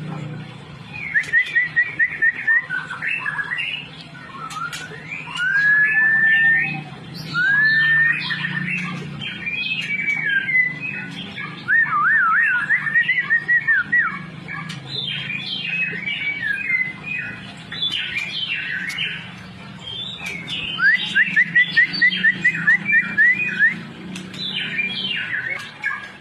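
White-rumped shama (murai batu) singing a long, varied song of clear whistles, glides and trills, broken by short pauses, with fast runs of repeated notes about a second in and again around three-quarters through. A steady low hum runs underneath.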